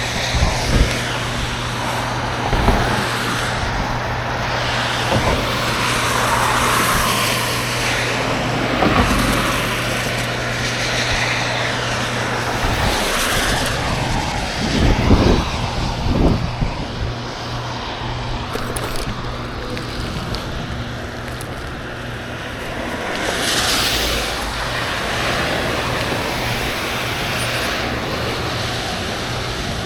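Traffic and road noise heard while cycling: a steady rushing noise with a low hum that stops about halfway through, and a few short knocks.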